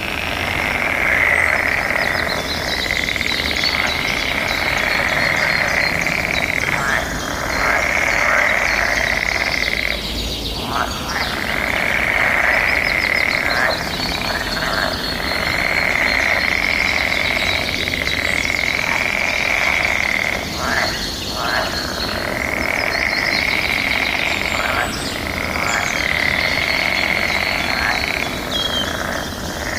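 A chorus of frogs calling over one another in the mating season: a dense, steady trilling that runs in stretches of a few seconds with short breaks between them.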